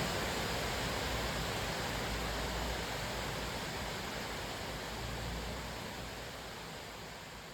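Cascading waterfall: a steady, even rush of falling water with a low rumble beneath, slowly fading out.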